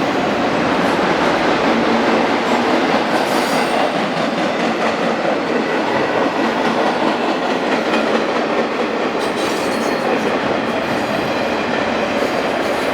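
Train cars rolling past, a steady loud rush of steel wheels on rail with a few faint clicks over the rail joints.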